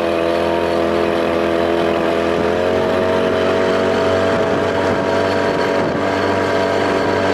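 1993 Evinrude two-stroke outboard running at speed while pushing a small boat, the pitch rising a little about two and a half seconds in and then holding steady. The motor has been fitted with a bigger intake to make 35 hp from a 25.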